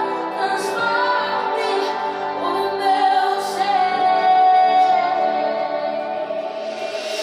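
Christian worship song: a woman singing long held notes over instrumental backing.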